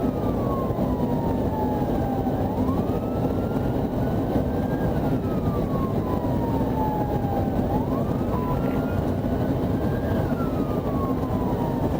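Steady rumble of a vehicle on the road. Over it, an emergency siren wails more faintly in a slow rise and fall, cycling about every five seconds.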